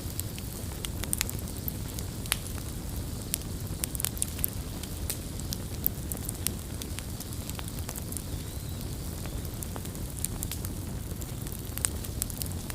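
Campfire crackling, with frequent irregular sharp pops and snaps over a low, steady rumble.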